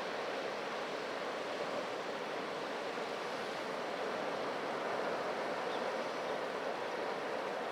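Atlantic sea surf washing steadily, a continuous rushing hiss of breaking water that swells a little about five seconds in.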